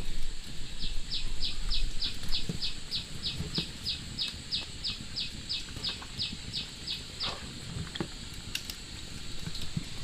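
A bird calling in a fast, even series of short, high chirps, each sliding downward in pitch, about four a second; the run of more than two dozen chirps stops about seven seconds in.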